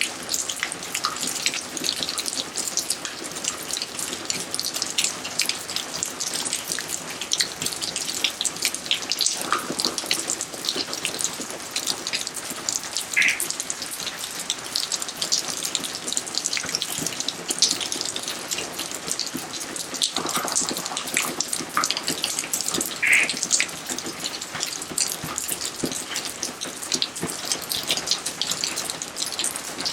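Rain falling steadily: a dense, even patter of raindrops, with a few brief pitched plinks of drops landing in water.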